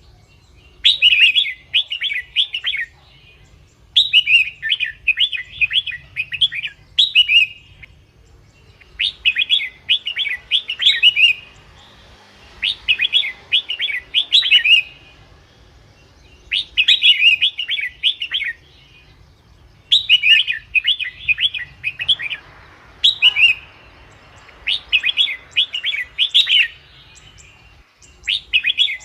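Red-whiskered bulbul singing: about ten short, rapid, warbling phrases, each a second or two long, repeated with brief pauses between them.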